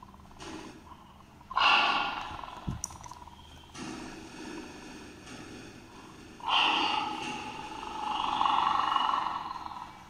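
Recorded lion roaring, played through a mobile phone's speaker: a short call about a second and a half in, then a longer one of about three seconds from around six and a half seconds.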